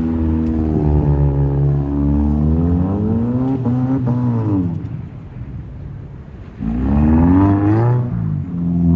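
Subaru Impreza's flat-four engine revving in swells as the car is driven sideways on snow. The revs climb and fall back about four seconds in, the engine drops to a quieter lull, then the throttle snaps open again shortly before seven seconds with a fresh rise and fall.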